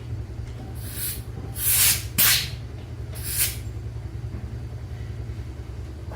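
A machine running with a steady low rumble, over which come four short bursts of hiss, the two loudest close together about two seconds in.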